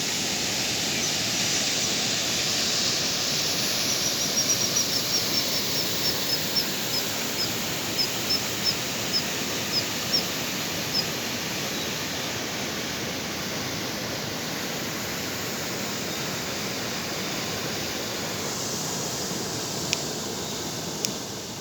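Waterfall rushing steadily. From about four seconds in, a run of short high chirps repeats, spacing out and stopping around eleven seconds in.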